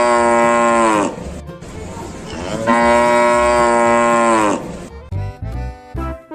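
Cow mooing: two long, steady moos, each dropping in pitch as it ends, followed near the end by a few short choppy sounds.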